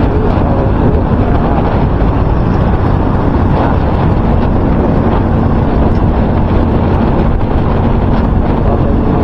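Loud, steady wind buffeting on the microphone, a dense rumble that the electrical tape wrapped around the mic has not cut down.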